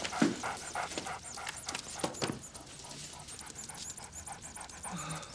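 A dog panting in quick short breaths that grow fainter after about two seconds.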